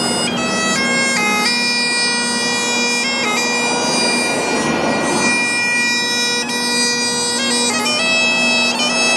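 Bagpipe music: a melody stepping from note to note over a steady drone.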